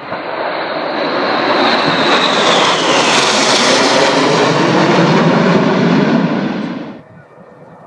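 Aircraft flying past at an air display: loud engine noise that builds to a peak, with a high whine falling in pitch as it passes. The sound cuts off abruptly about seven seconds in.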